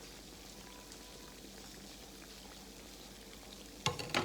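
Croquettes frying in hot oil, a steady faint crackling sizzle. Near the end, two sharp clicks a quarter second apart.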